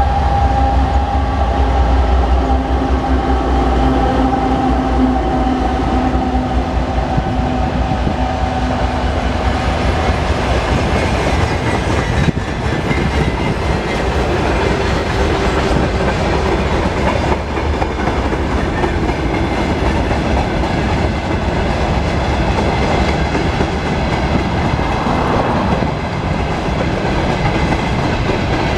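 2M62U diesel locomotive running under load with a steady low drone and whine for the first ten seconds or so. That sound then gives way to freight wagons rolling past, their wheels going clickety-clack over the rail joints.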